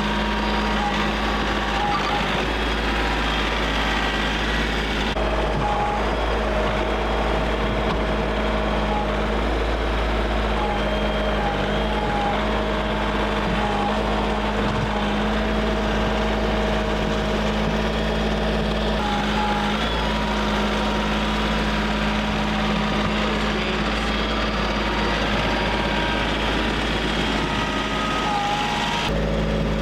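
A vehicle engine running steadily, with short repeated beeping tones over it. The sound changes abruptly a few times.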